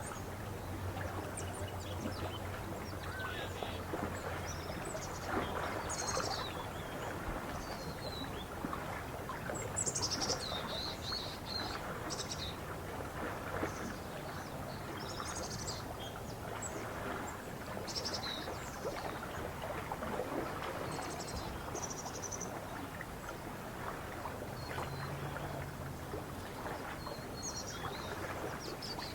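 Small birds chirping and calling in short, scattered phrases over a steady wash of lakeside ambience. A faint low hum runs through the first few seconds and returns briefly about three-quarters of the way in.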